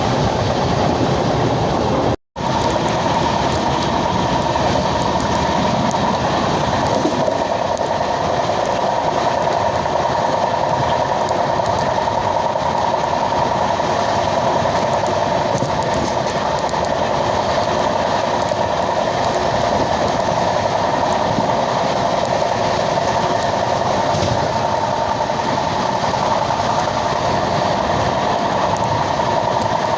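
An express train with LHB coaches running at speed: steady wheel-on-rail rumble with a constant tone through it. The sound cuts out completely for a moment about two seconds in.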